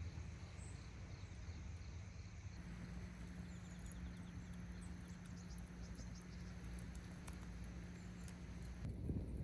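Insects chirping faintly in a repeating pattern over a steady low outdoor rumble, with a few faint ticks.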